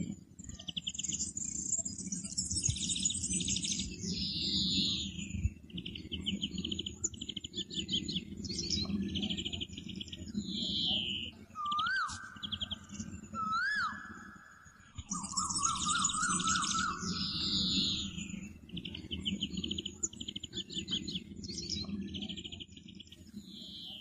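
Birdsong: fast chirping trills and buzzy calls repeated over and over, with a few sliding whistles about halfway through, over a steady low background. The same run of calls comes round again partway through.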